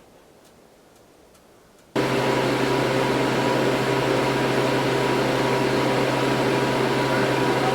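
Steady machine noise with a constant low hum, starting abruptly about two seconds in after a quiet moment.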